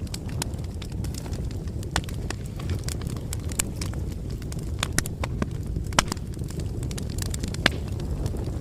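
Wood bonfire crackling: a steady low rumble of burning with irregular sharp pops and snaps, two louder pops about six and seven and a half seconds in.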